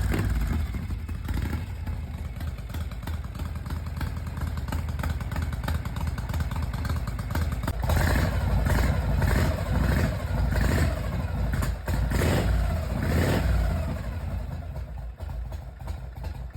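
Harley-Davidson Panhead V-twin motorcycle engine running just after catching on the kickstarter, not yet warmed up. From about eight to fourteen seconds in the throttle is blipped repeatedly, then it settles back to a lumpy idle.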